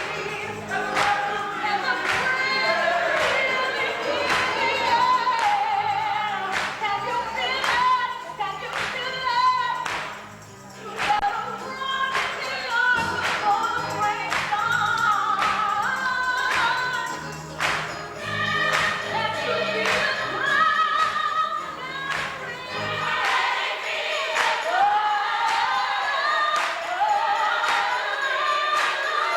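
Gospel choir singing with band accompaniment: a low bass line under the voices and regular percussion hits. The bass drops out about 23 seconds in while the choir keeps singing.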